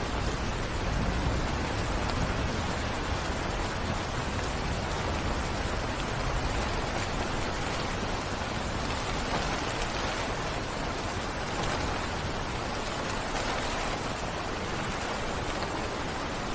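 Heavy rain falling, a steady dense hiss of drops with a low rumble underneath.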